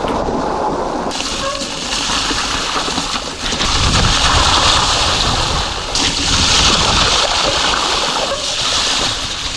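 Cube Stereo 150 mountain bike riding through water on a wet trail, tyres splashing and sloshing, with a continuous rushing noise that swells and eases.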